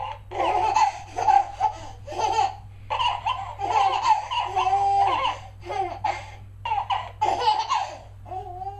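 High-pitched laughing in short, repeated bursts, some drawn out into held notes, over a steady low hum.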